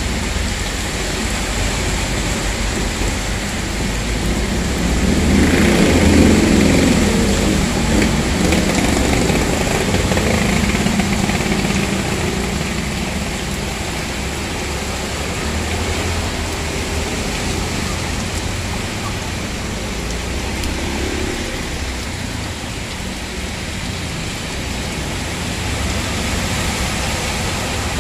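Heavy rain hissing steadily on a flooded road while vehicles drive through the standing water; one passes loudest, with a swell of tyre splash and engine, from about five to ten seconds in.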